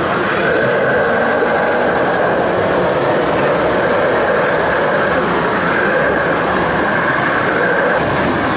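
Steady mechanical whirring of a radio-controlled model vehicle's motor and drivetrain, with a whine that dips slightly in pitch midway and rises again near the end.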